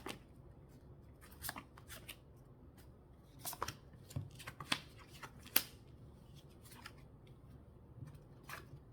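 Lenormand cards being handled and laid out: scattered short card rustles and soft clicks against a faint room hush, the sharpest click about halfway through.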